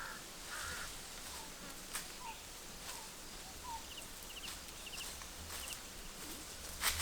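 Birds calling outdoors: one harsh, caw-like call right at the start, then scattered faint chirps and a run of quick triple chirps. Two sharp clicks stand out, one about two seconds in and one near the end, over a faint low hum.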